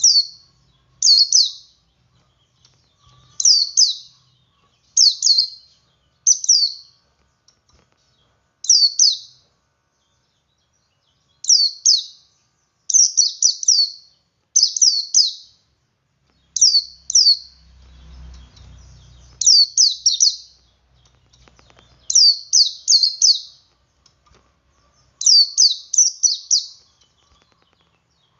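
Male white-eye (pleci) singing its 'ngalas' song: short, high, shrill falling notes, given singly or in quick runs of two or three, repeated every second or two.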